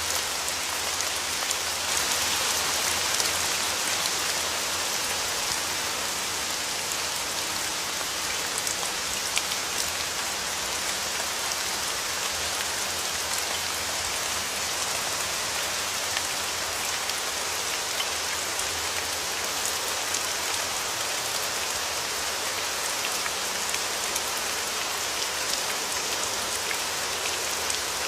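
Steady rain falling, an even hiss with scattered sharper drop ticks, swelling slightly about two to four seconds in.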